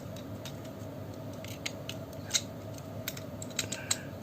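Plastic parts of a snap-together Bandai Minipla model kit clicking and clacking as they are handled and pulled apart: scattered light clicks, with a quick cluster of them near the end, over a faint steady hum.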